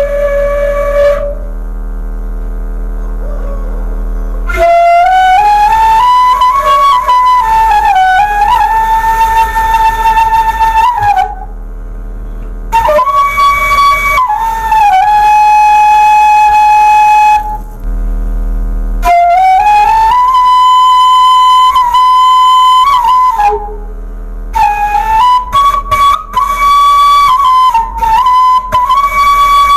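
Bamboo suling flute played by a beginner: long held notes joined by pitch slides, in phrases broken by short pauses, with a steady low hum underneath.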